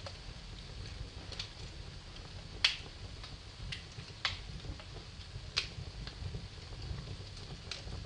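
Wood fire in a fireplace crackling: sharp pops every second or so, the loudest about two and a half seconds in, over the low steady rumble of the flames.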